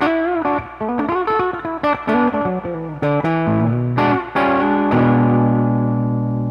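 Electric guitar played through a Mesa Boogie 5:25 Express 1x10 combo amp: a quick run of single notes with a few string bends, moving down to lower notes, then a low note or chord left to ring from about two-thirds of the way in.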